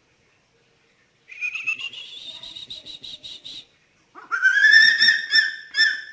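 Eagle calling: a whistled, quavering call that rises in pitch for about two seconds, then a louder, lower-pitched call that breaks up into short pieces near the end.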